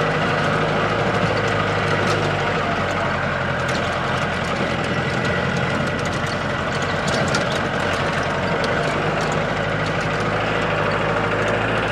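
Off-road jeep's engine running steadily as it crawls over a rough, potholed mountain track, heard from inside the vehicle, with frequent small knocks and rattles.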